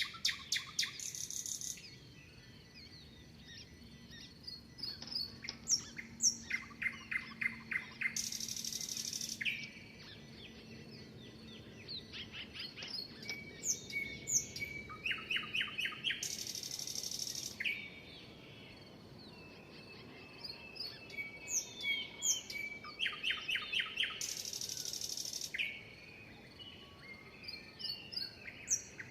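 Several songbirds chirping and singing, with short whistled notes and quick glides. One song repeats about every eight seconds: a fast rattling run of notes, then a harsh buzz lasting a second or so.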